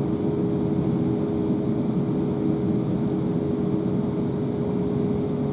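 On-board running noise of a South Western Railway Class 444 Siemens Desiro electric multiple unit travelling at steady speed: rumble of wheels on the rails with a steady two-tone electrical hum that holds constant.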